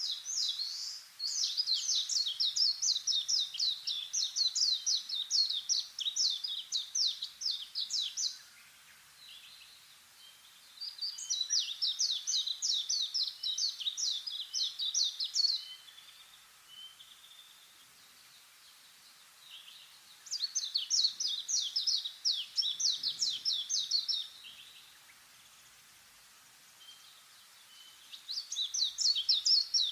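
A songbird singing long trills of rapidly repeated high notes. It sings four phrases of about four to seven seconds each, with pauses of a few seconds between them; the last phrase starts near the end.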